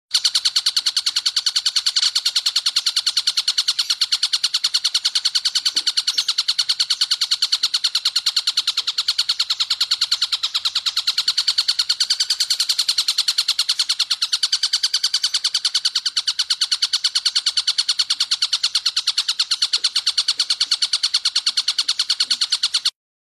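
Stork-billed kingfisher giving a long, fast, steady rattling trill of rapid high notes. It cuts off abruptly near the end.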